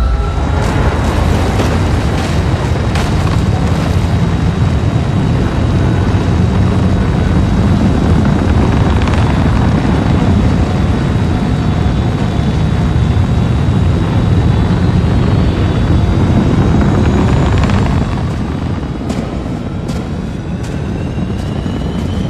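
Loud, continuous deep rumble of dramatic sound design, with rising sweeps at the start and near the end and a few sharp hits shortly before the end.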